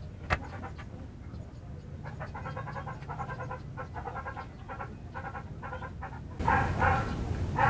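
A dog panting in quick, even pulses, louder from about six and a half seconds in.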